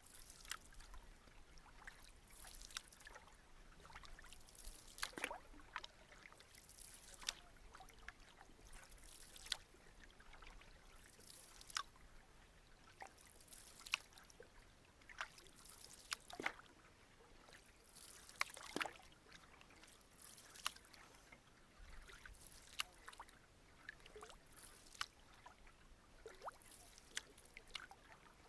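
Canoe paddles dipping and pulling through calm lake water, a soft splash and trickle of dripping water about every two seconds in a steady stroke rhythm.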